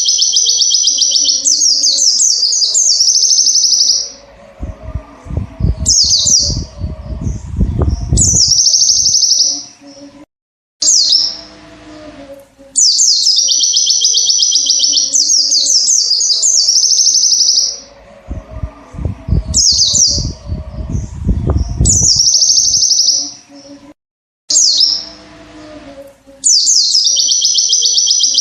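White-eye (pleci) singing in long, rapid, high trilled phrases with short pauses between them. Twice a low rumbling noise runs under the song for a few seconds.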